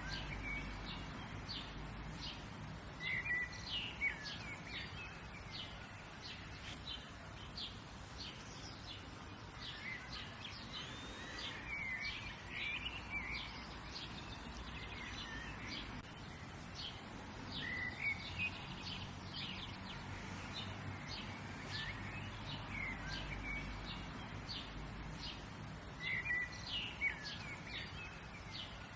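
Several birds chirping and singing: a constant scatter of short, high chirps, with a fuller warbling phrase every few seconds. A steady low background rumble runs underneath.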